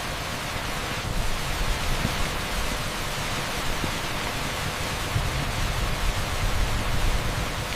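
Torrential rain falling on an asphalt street: a steady, dense hiss over a low rumble.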